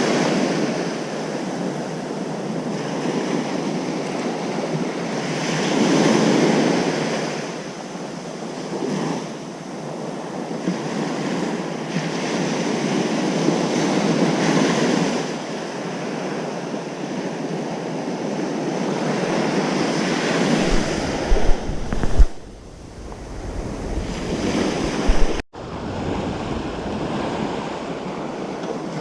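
Ocean surf breaking on a beach, a wash of noise that swells and eases every few seconds. About two-thirds of the way through, wind buffets the microphone with a low rumble and a few sharp gusts, and the sound drops out for an instant a few seconds before the end.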